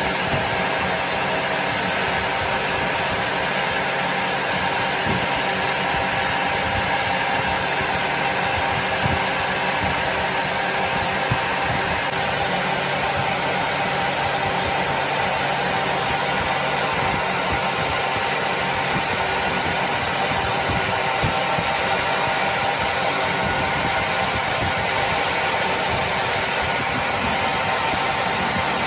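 A machine running steadily with an even hum and several steady tones, unchanged throughout.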